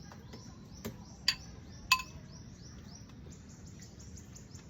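A bird's rapid series of high chirps, several a second. About one to two seconds in come three sharp clinks, the last two ringing, like cutlery striking a plate.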